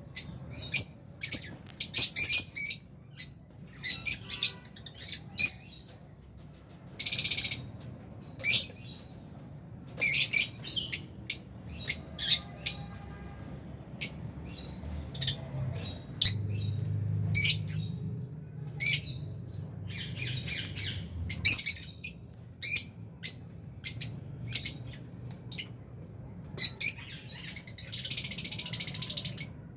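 A colony of lovebirds calling, with rapid, overlapping, high-pitched chirps and squawks. A longer harsh screech comes about seven seconds in and another near the end.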